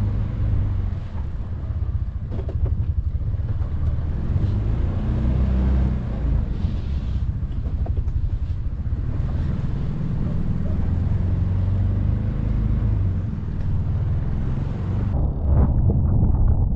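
Can-Am Defender side-by-side's engine running, a steady low drone; near the end the sound turns duller.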